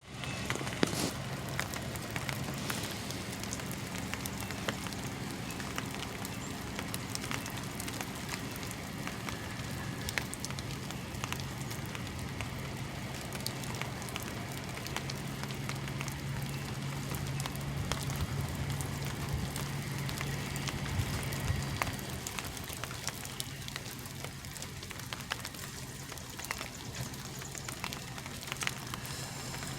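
Semi truck's diesel engine idling steadily: a low hum with many small ticks over it. The hum grows a little stronger for a few seconds, then eases back about two-thirds of the way through.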